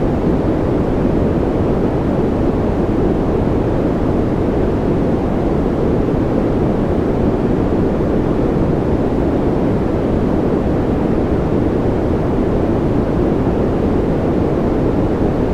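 Steady, deep rushing noise from an ambient noise track, even and unbroken, weighted to the low end with little hiss and no separate drops or clicks.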